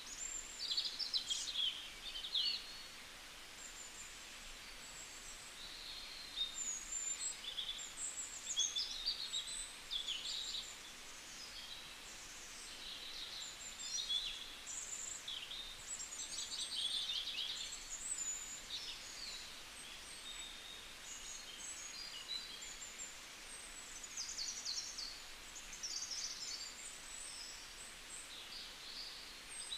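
Birds chirping and singing, a busy mix of short rising and falling calls and quick trills, over a faint steady hiss.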